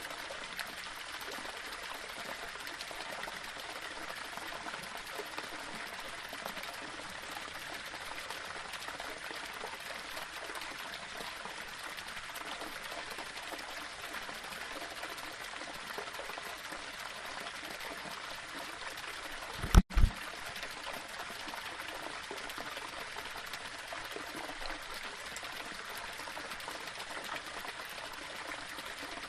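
Small waterfall splashing over stones: a steady rush of running water. About twenty seconds in, a short, loud low thump breaks through it, with a split-second dropout.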